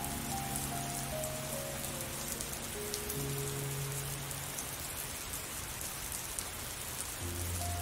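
Steady rain falling and pattering. Slow, sustained music notes sound over it, stepping down in pitch over the first few seconds, fading out around the middle and coming back near the end.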